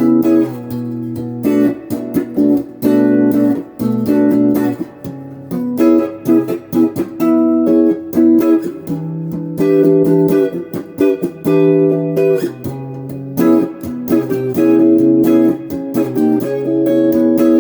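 GEARIT GI-155 Les Paul-style electric guitar played through a Crate GX15R amp: chords strummed and let ring, changing every second or two.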